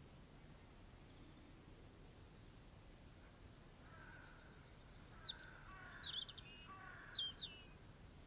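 A songbird singing: a run of quick high notes from about four seconds in, then clear, sliding whistled phrases, the loudest about five seconds in and again near the end, over a faint steady background hiss.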